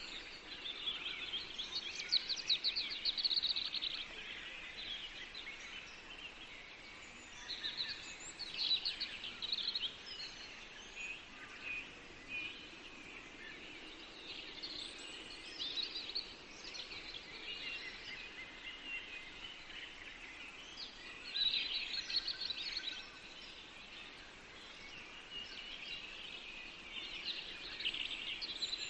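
Several songbirds singing and chirping together in a forest dawn-chorus mix, with phrases overlapping and louder bursts of song every few seconds, over a faint steady background hiss.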